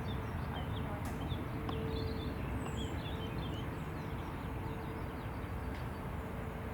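Small birds chirping over a steady low outdoor rumble, with a faint steady hum that comes and goes.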